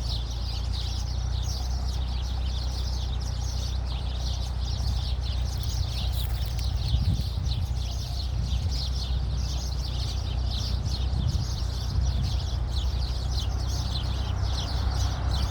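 Many small birds chirping at once in a dense, unbroken chorus of short, overlapping high calls, over a steady low hum.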